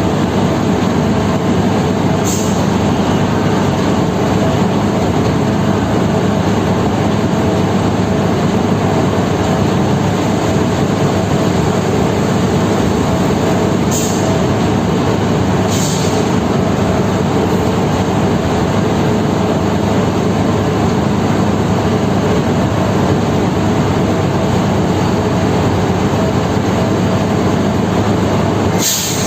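Steady loud diesel engine drone and rumble on a ferry's vehicle deck as a truck manoeuvres, with a few short hisses.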